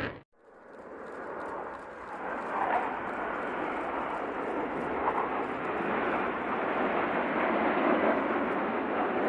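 Jet noise from Panavia Tornado RB199 turbofan engines: after a brief moment of silence near the start, a steady rushing noise fades up and holds.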